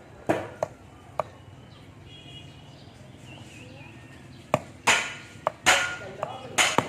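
Sharp metallic knocks and clinks of tools striking metal pump parts: a few in the first second, then a run of louder strikes from about four and a half seconds in, each with a short ring.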